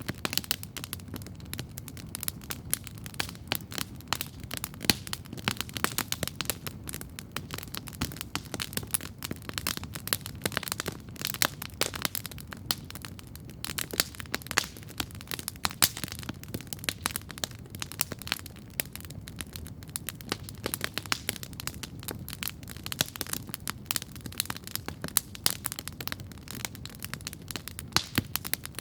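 Wood campfire crackling steadily, with many sharp, irregular pops and snaps over a low rumbling hiss of the flames.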